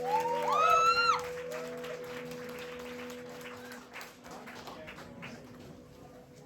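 End of a song at a live band show: the band's last held note rings on and fades out, over a couple of audience whoops and applause that thins out to scattered clapping.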